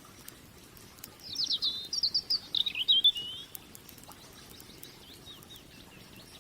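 A songbird sings a rapid phrase of chirping notes for about two seconds, starting about a second in, with fainter notes answering afterwards. Under it runs the faint, scattered crackle and popping of a burning wood campfire.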